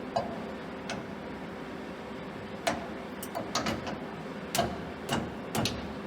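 Irregular sharp metal clicks and taps, about eight in all, as a VDI40 live-tool holder is handled and fitted into a CNC lathe turret, over a steady faint hum.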